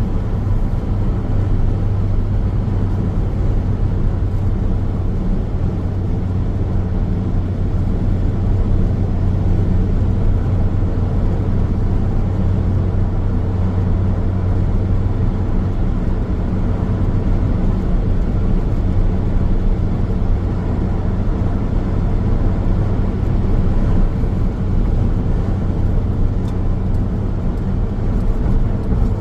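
A car driving steadily on the road: a continuous low hum of tyres and engine with no change in speed.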